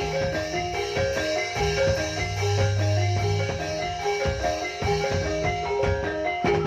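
Instrumental Banyumas gamelan-style music without singing: quick runs of tuned mallet-struck keys over drum beats, with a low held tone near the middle.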